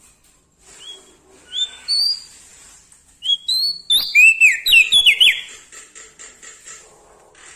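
Prenjak daun singing: a few clear whistled notes, then, about three seconds in, a loud quick run of sharp, sweeping notes. A faint steady high hiss lies underneath.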